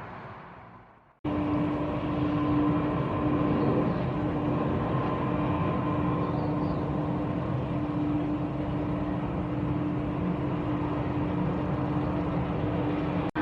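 Jet airliner engines running steadily: a broad rumble with a held hum and a higher whine. It starts abruptly about a second in, after the sound before it fades out.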